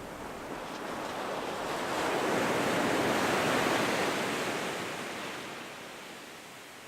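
Ocean surf: a wave breaks and washes up the beach, swelling to its loudest about halfway through and then fading back.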